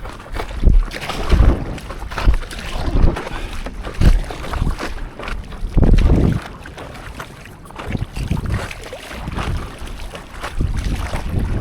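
Sea water splashing and sloshing around a stand-up paddleboard in irregular surges, with wind buffeting the microphone.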